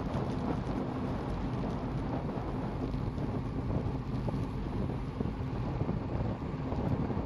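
Steady wind rumble buffeting a microphone moving at road speed, with a faint low hum of a vehicle or other machinery underneath.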